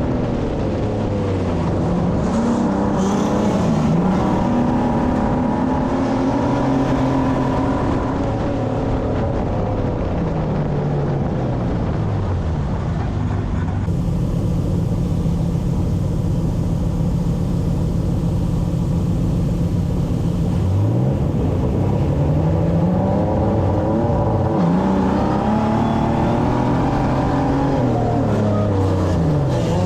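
Racing stock car's engine heard from on board, the revs repeatedly climbing and dropping away, with a longer stretch held at steady revs about halfway through.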